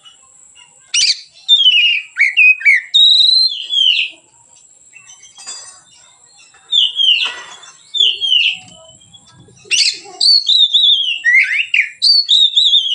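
Oriental magpie-robin singing: rich whistled phrases of rising and falling notes, given in bursts with short pauses, in the first few seconds, again in the middle, and in a long run near the end.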